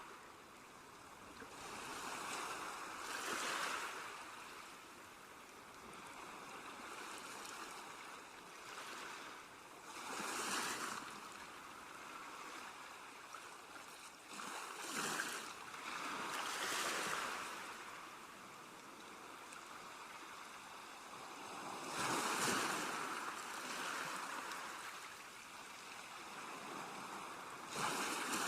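Sea waves breaking and washing onto the shore: a continuous rush of surf that swells up and falls back every few seconds, with the biggest waves about three, ten, fifteen, seventeen and twenty-two seconds in and again near the end.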